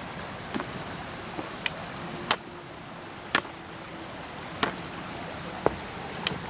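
Creek water running steadily, with about seven sharp clicks and knocks scattered irregularly over it.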